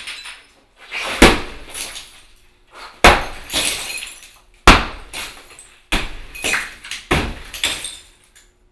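A 10-pound Wilton BASH sledgehammer striking something hard five times, about a second or more apart. Each blow is a sharp crack followed by a clatter of breaking material.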